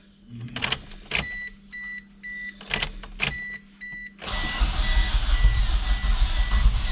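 A car's warning chime beeps about twice a second among a few sharp clicks. About four seconds in, a loud, steady mechanical sound with a low rumble sets in: the 1995 Mitsubishi Eclipse GST's engine being cranked over.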